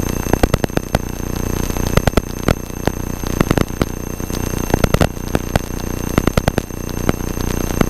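Cockpit intercom audio of a Cessna 172 in flight. The engine drone and a steady electrical whine run under bursts of rapid clicking and buzzing interference, which come about once a second.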